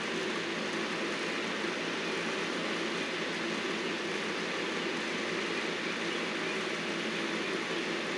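Powered landscaping equipment running steadily, a continuous even noise with no breaks or impacts.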